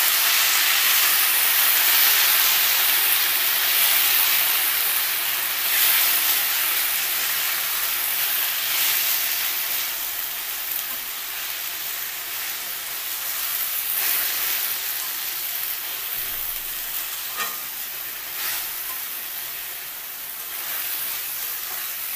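Fresh mint leaves sizzling in hot oil in an aluminium kadai, with a few stirring strokes along the way. The sizzle slowly dies down as the water in the leaves cooks off and they begin to fry dry.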